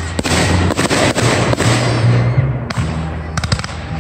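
Aerial fireworks going off: sharp bangs of bursting shells at the start and about a second in, a quick string of bangs near the end, with crackling between them.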